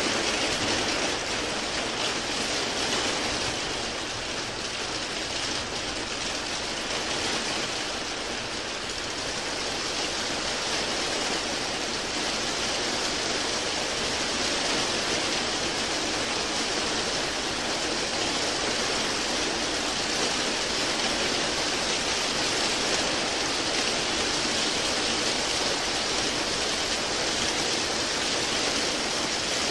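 Steady, even rain noise with no distinct drops or events, used as soothing white noise.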